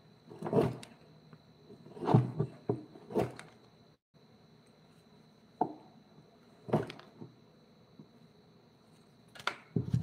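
Irregular short knocks and scrapes, about seven in ten seconds, typical of wood being handled and worked at a bench, over a faint steady high-pitched whine.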